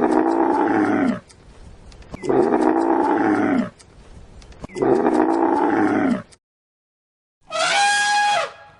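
An animal giving three long, rough roaring calls in an even rhythm, each about a second and a half. After a short silence comes a different, higher call with a clear falling tone near the end.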